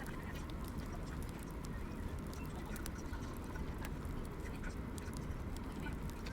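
Wood fire crackling: a steady low noise of burning logs with scattered sharp pops and snaps throughout.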